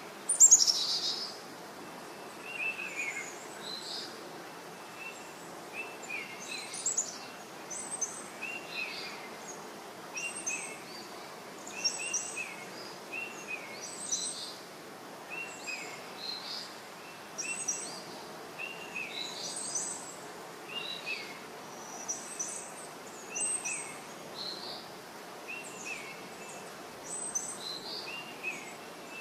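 Birds chirping in short repeated calls every second or two over a faint steady hiss, with one louder call about half a second in.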